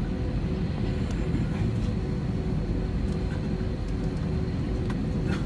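Steady low rumble of a jet airliner's engines and airflow, with faint steady hums over it and a few small clicks near the end.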